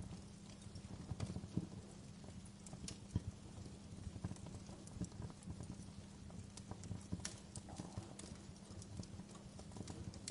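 Wood fire crackling in a fireplace: irregular sharp pops and snaps over a steady low rumble, with a louder pop about three seconds in.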